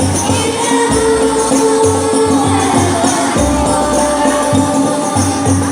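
Banjari music: rebana frame drums beating a rhythm of deep strokes, with a voice singing long held notes over them.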